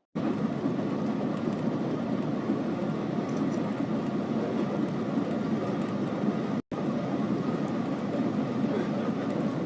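Steady rushing cabin noise inside the Shanghai maglev train as it travels at speed. The noise cuts out for an instant about two-thirds of the way through.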